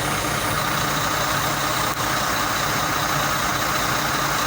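Backhoe's diesel engine running steadily at idle.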